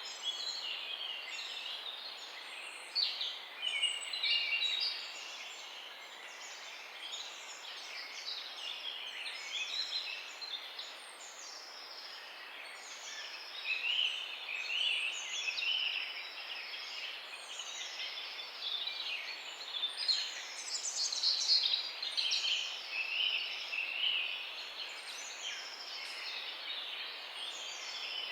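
A dawn chorus of many small songbirds chirping and warbling at once, short overlapping calls and phrases that never stop, over a faint steady hiss.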